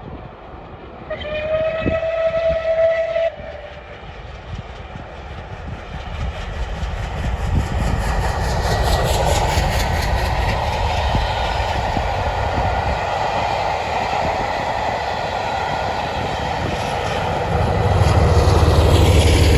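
Bulleid Battle of Britain class steam locomotive 34067 Tangmere sounding its whistle for about two seconds, about a second in. The train then approaches and passes, loud, with a rapid rhythmic beat and a low rumble that swells near the end.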